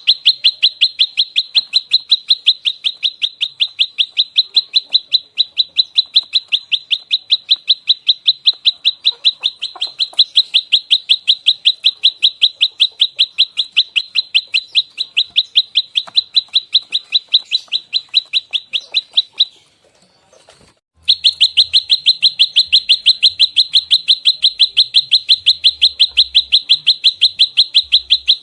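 Prenjak lumut calling in its fighting 'tarung' mode: a loud, unbroken run of sharp, evenly repeated chirping notes fired in close succession. The call breaks off about 19 seconds in for a second and a half, then starts again.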